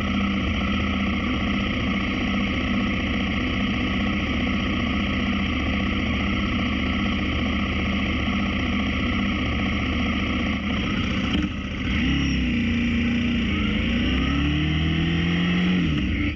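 Motorcycle engine running steadily under way. About twelve seconds in, the engine note starts rising and falling as the speed changes.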